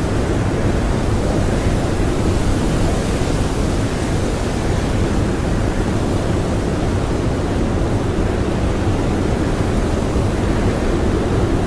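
Blizzard wind blowing steadily in a dense, even rush, heaviest in the low end, with no gusts standing out.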